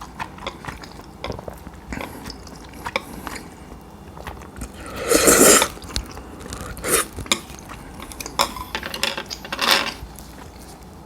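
Eating cold udon: many small clicks of utensils against dishes, with a louder noisy sound lasting about half a second near the middle and a few shorter ones after it.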